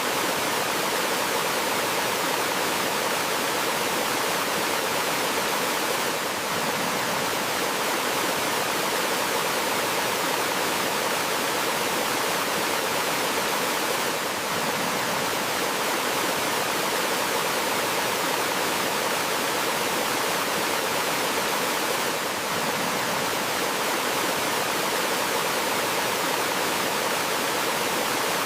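A small waterfall: water rushing and splashing steadily over rocks in an even, unbroken hiss.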